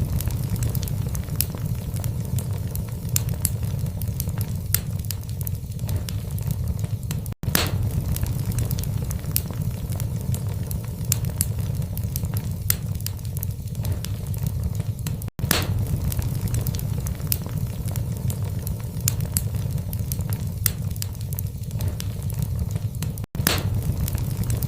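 Wood fire burning in a fireplace: frequent sharp crackles and pops over a steady low rumble of the flames. The sound cuts out for an instant three times, about eight seconds apart, where a short recording loops.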